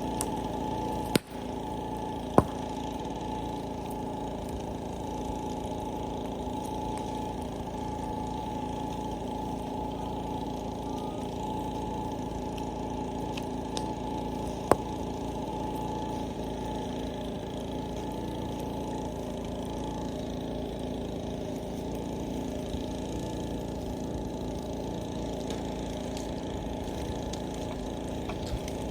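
A steady mechanical hum, like an idling engine, with a few sharp pops: one about a second in, a louder one about two seconds in, and another near the middle.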